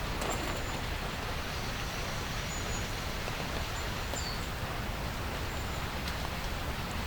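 Steady rain falling, an even hiss with no letup. A few faint, short, high chirps sound over it.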